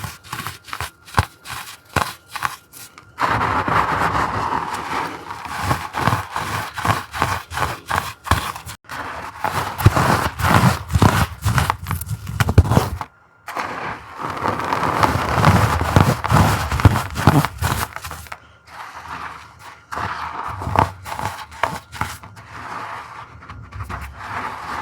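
Crumbled chalk pebbles and powder crunched and rubbed by hand, with dense crackling and scraping. Scattered crackles at first, steady crunching from about 3 seconds in with a brief stop partway, then sparser crackles near the end.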